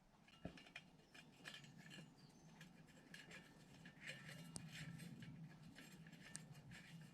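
Faint, scattered metallic clicks and light clinks of stainless steel spokes being fed through the holes of a motorcycle wheel hub's flange and knocking against it.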